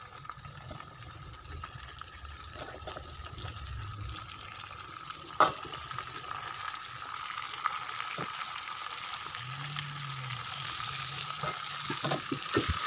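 Tomato slices sizzling in hot oil in a wok, the frying hiss growing louder toward the end. A sharp click sounds about five seconds in, and a few light knocks near the end.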